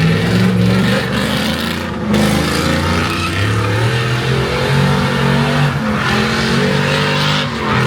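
A car engine revving hard and loud, its pitch stepping up and down as the throttle is worked, over a steady rushing noise.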